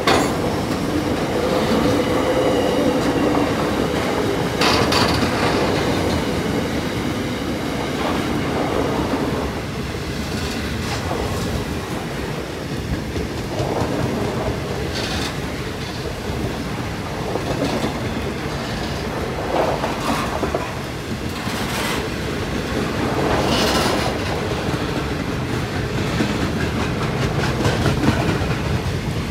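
Wagons of a long freight train rolling past: steel wheels running and clattering over the rails with a steady rumble, broken by a handful of louder clanks. A faint wheel squeal sounds in the first few seconds.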